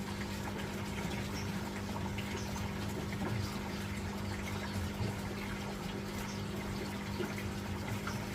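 Steady mechanical hum of a small pump or motor over a faint, even watery hiss.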